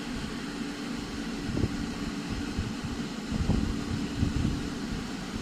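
Class 345 electric train pulling out of the platform: a steady hum with irregular low rumbling.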